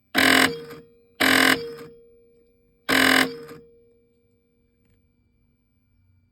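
Janome Secio computerized embroidery sewing machine giving three short, harsh grinding bursts, each dying away over about half a second, over a faint steady hum. This is the machine's abnormal 'ga-ga-ga' noise: the embroidery carriage gear straining to drive the carriage further in than it can go.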